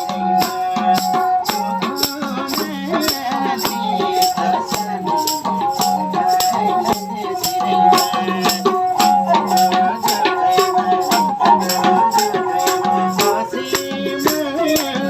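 Nepali folk music: a sarangi plays a tune of held, repeated notes over a quick, steady rattling percussion beat.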